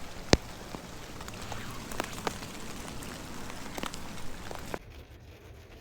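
Rain falling, a steady hiss with scattered drop ticks and one sharp tick just after the start. About five seconds in it cuts off suddenly to a quieter background.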